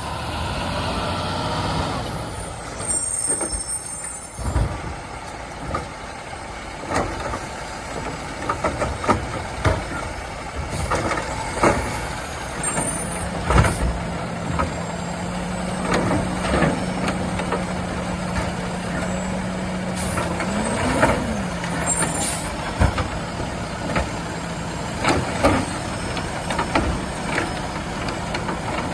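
Peterbilt 520 garbage truck with a Labrie Automizer side-loader body at work: diesel engine running under a string of knocks and clatters from carts being lifted and dumped, with short air brake hisses. A steady hum holds through the middle and swells briefly near the end of it as the engine revs for the hydraulics.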